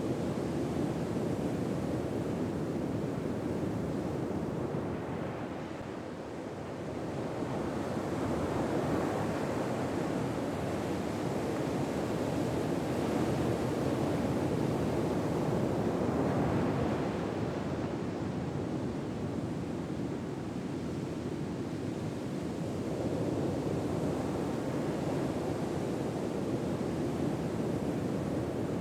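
Ocean surf: a steady wash of waves that swells and ebbs slowly, a softer lull coming about every ten to fifteen seconds.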